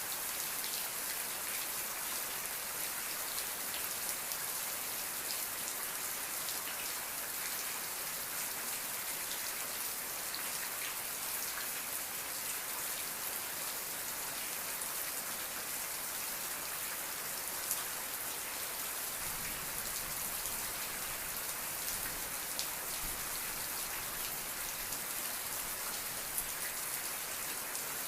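Steady, heavy rain falling, with a dense patter of drops hitting a surface. A low rumble comes in about two-thirds of the way through.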